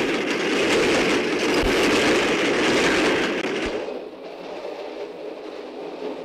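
Passenger train passing at speed: a loud rushing noise with rapid wheel clatter and a couple of low thumps. About four seconds in it drops to the quieter steady rumble heard inside a moving carriage.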